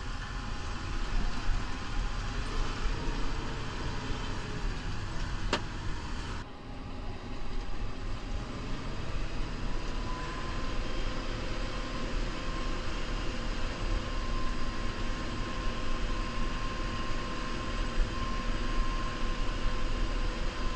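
New Holland Powerstar 75 tractor's four-cylinder diesel running steadily under load while plowing snow. A sharp click comes about five seconds in, and a steady whine sets in about ten seconds in.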